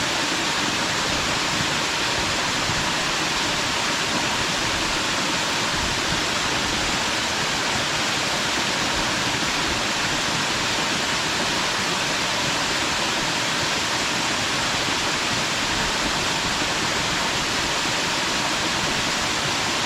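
A small mountain waterfall pouring onto rocks and pool, a steady dense rush of falling water.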